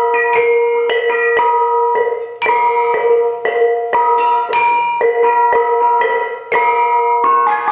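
Bonang, a row of small bronze kettle gongs, struck in a steady run of notes about two a second, each note ringing on, with one lower note ringing through most of the passage.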